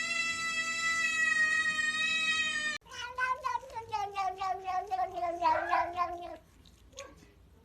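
Cat vocalising: a long, steady, high-pitched cry that cuts off abruptly about three seconds in, then a drawn-out, warbling yowl that slowly falls in pitch and stops about three and a half seconds later.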